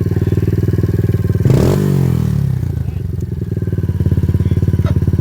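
A TT 125 dirt bike engine idling through a straight-piped exhaust. About a second and a half in it gives a quick throttle blip, then drops back to idle.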